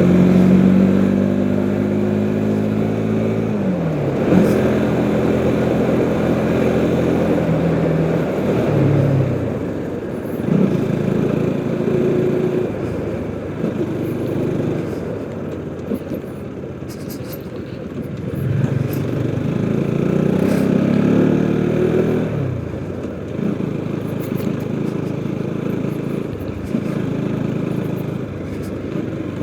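Motorcycle engine running while being ridden. Its pitch holds steady, then drops twice, about three seconds in and again near twenty-two seconds, over steady wind and road noise.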